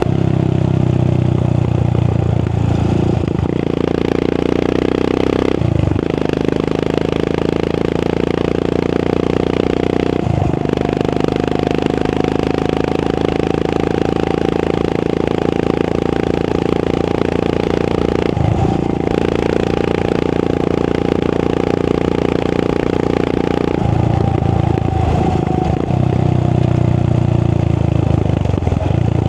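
Royal Enfield Continental GT 535's 535cc single-cylinder engine, through an AEW aftermarket exhaust, running under way on the road. The engine note breaks briefly about four, six, ten and eighteen seconds in, as with gear changes. The revs settle lower near the end.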